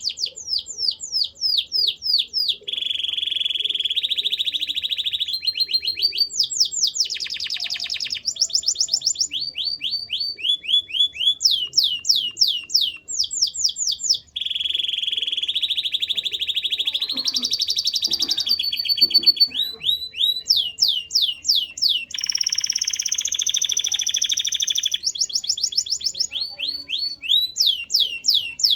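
Male domestic canary singing a long continuous song made of tours: runs of quick, high sweeping chirps repeated several times a second, alternating with fast, buzzy rolls held for a second or two.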